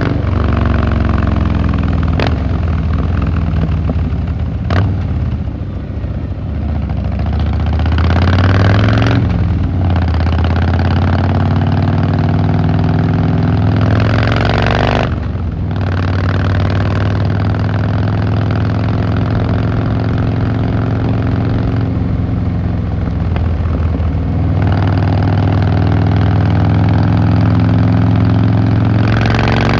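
Harley-Davidson Fat Boy Lo V-twin engine and exhaust running under way. The revs climb through the gears, with three short dips at the shifts: about a third of the way in, about halfway, and at the end. Two sharp clicks come in the first five seconds.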